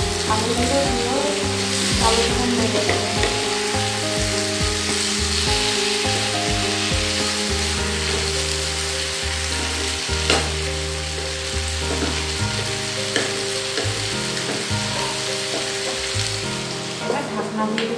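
Chicken and potato pieces frying in oil in a nonstick pan with a steady sizzle. A wooden spatula stirs them, scraping and now and then knocking against the pan, most sharply about ten seconds in.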